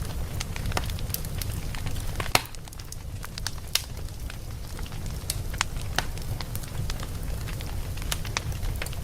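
Wood logs burning in a fireplace: a steady low rumble of the flames with irregular sharp crackles and pops of the wood, one pop louder than the rest about two seconds in.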